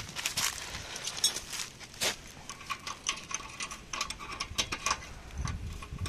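Irregular metallic clicks and clinks of a spanner working on a rusted silencer mounting bolt under a Royal Enfield.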